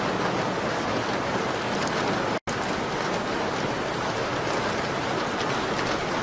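Steady rain on a window: a dense, even hiss with faint light ticks of drops. The sound cuts out completely for an instant about two and a half seconds in, then carries on unchanged.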